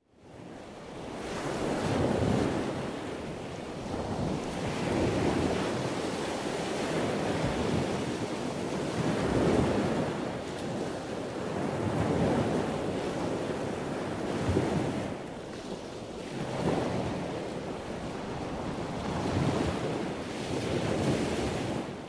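Surf: waves washing in and drawing back, a rushing noise that swells and ebbs every two to three seconds.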